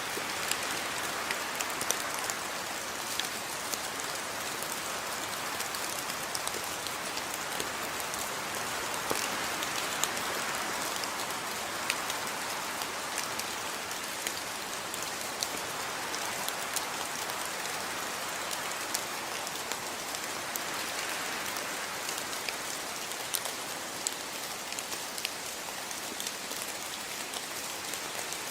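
Steady rain falling, with many separate drops ticking sharply on a surface over the even hiss.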